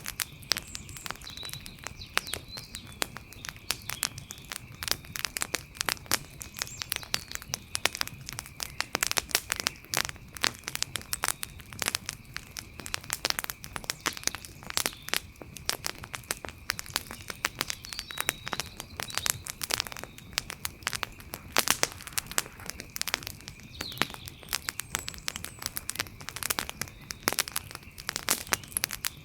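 Wood campfire crackling, with dense, irregular sharp pops and snaps. Under it runs a steady high-pitched tone, with a few faint short chirps here and there.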